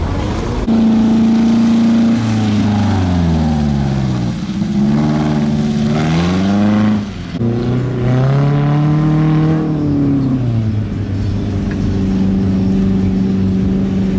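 Engine of a small Peugeot 206 hatchback revving as it drives: its pitch falls and rises several times as it speeds up and lifts off, then holds steady near the end.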